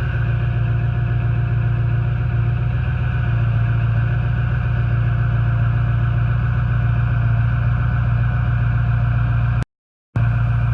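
Ford 6.0 Powerstroke turbo-diesel V8 idling steadily just after a cold start at 3 degrees without the block heater plugged in. The sound cuts out for about half a second near the end.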